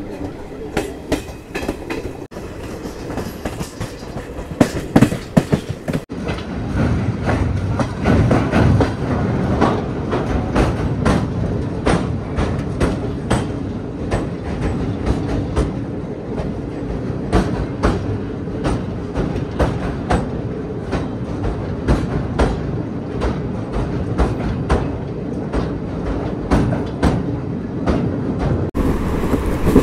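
Passenger train coaches running, heard from an open door: steel wheels clacking over rail joints in quick irregular knocks over a steady rumble. The rumble gets louder and fuller about six seconds in, as the train runs across a steel truss bridge.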